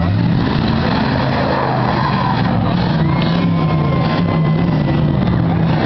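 Eight-cylinder demolition derby car engines running and revving loudly, their pitch rising and falling. A steady high whine joins in for about two seconds near the middle.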